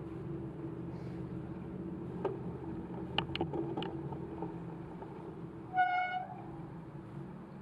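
Steady hum of vehicle traffic in a wet parking lot, with a few light clicks and one short car horn beep about six seconds in.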